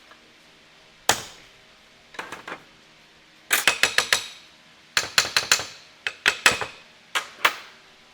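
Hammer tapping on metal in irregular runs of quick strikes, each with a short metallic ring: a single strike, a pair, then bursts of four to six taps, and two last strikes near the end.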